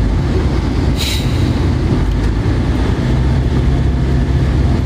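Steady low rumble of a moving vehicle, with a short hiss about a second in.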